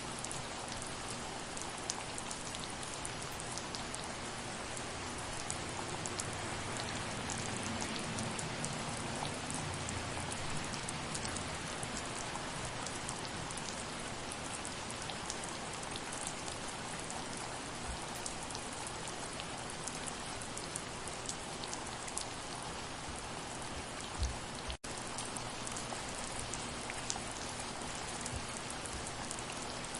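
Steady soft rain falling, a continuous hiss of fine drops with many small ticks. About 24 seconds in there is a short low thump, followed by a split-second dropout in the sound.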